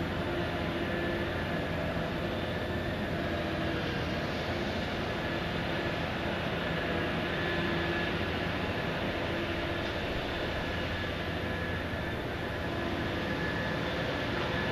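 Heavy machinery of a dredging backhoe running: a steady drone with faint whines that rise and fall a little in pitch.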